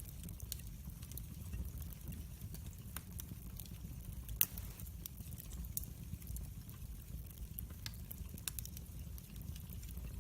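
Wood fire in a fireplace crackling, with irregular sharp pops over a steady low rumble of the flames; one louder pop about four seconds in.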